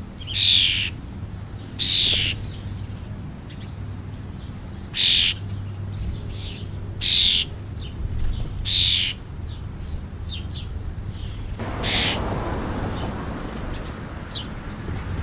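A bird calling repeatedly: five loud, harsh, slightly falling calls about half a second each, a second or two apart, with fainter calls between. About twelve seconds in, a steady rushing noise comes up.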